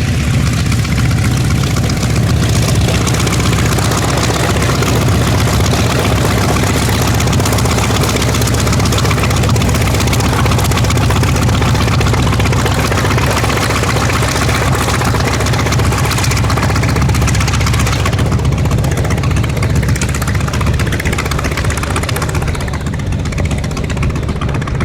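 Grumman F4F Wildcat's radial engine and propeller running steadily at low power, a loud, even rumble; the higher part of the sound eases off somewhat after about 18 seconds.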